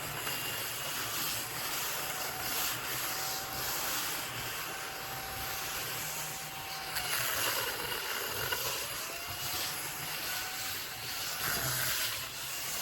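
Small battery-powered mini vacuum cleaner running with a steady motor whine over the rush of air. About seven seconds in the whine's pitch briefly sags, then recovers, as though the motor is loaded for a moment.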